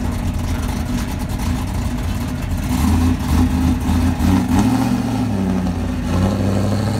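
Fourth-generation Chevrolet Camaro's engine running at low revs, uneven and choppy, as the car rolls slowly away; the engine note rises briefly and falls back about halfway through.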